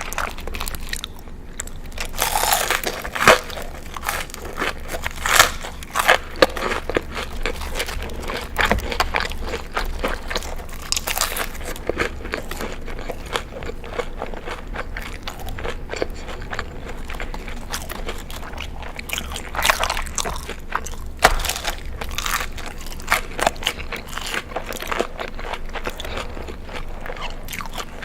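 Someone biting and chewing crunchy food: a dense run of crisp crunches, with louder bites every few seconds.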